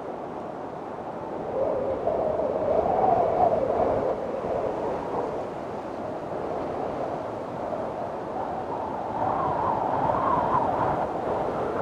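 Windstorm: strong wind blowing with a wavering howl that swells in two gusts, one a couple of seconds in and another near the end.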